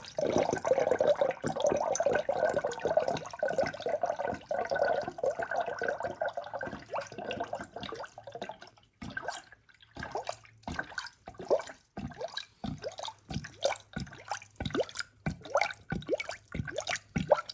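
Engine coolant being poured into the cooling system. A steady pour runs for roughly the first half, then breaks into irregular glugs and splashes.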